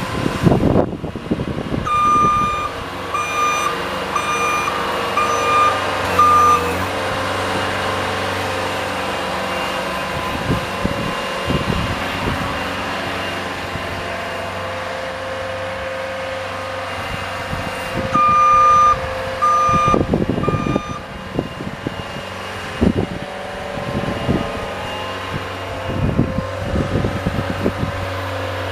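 A vehicle engine runs steadily while its reverse warning beeper sounds in two runs of evenly spaced beeps: about six near the start and three more about two-thirds of the way through, the sign of the vehicle backing up. Occasional low thumps and rattles can be heard over the engine.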